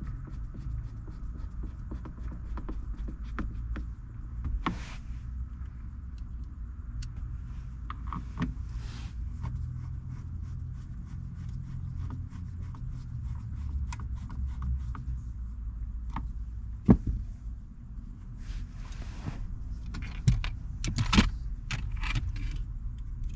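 Hand tools and car interior parts being handled during reassembly: scattered small clicks and taps of screws and trim pieces, one sharp knock about seventeen seconds in and a run of louder clatters near the end, over a steady low hum.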